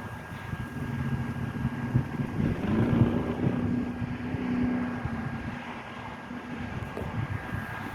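A vehicle engine running with a low rumble, its pitch rising a little about two and a half seconds in, holding, then easing off.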